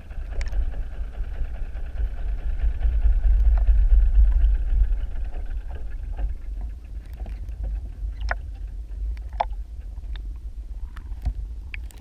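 Muffled underwater sound: a low rumble with the steady hum of a distant boat engine, which fades out about halfway through. Scattered sharp clicks and ticks follow.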